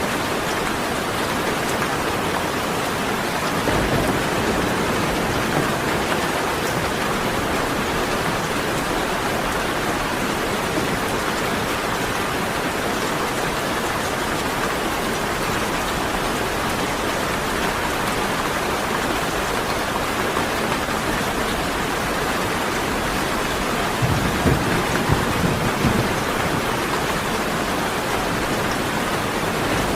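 Steady heavy rain falling, with low rolls of thunder about four seconds in and again for a couple of seconds near the end.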